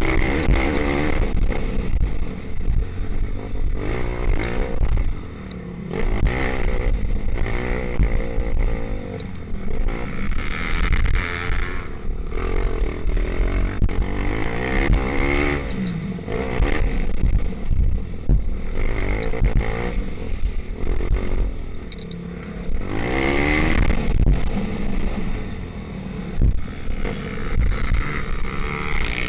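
Pitbike engines, small four-stroke singles, revving hard and shifting as the bikes race past, their pitch rising and falling again and again; the loudest pass comes about two-thirds of the way through.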